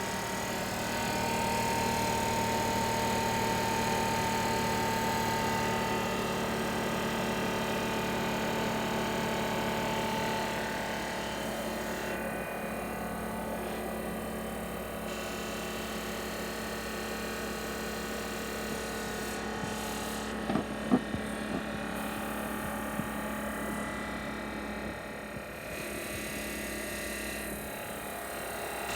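Hitachi EC1443H high-pressure air compressor running steadily, its motor and pump giving a constant machine whine made of several steady tones. A few sharp clicks come about two-thirds of the way through.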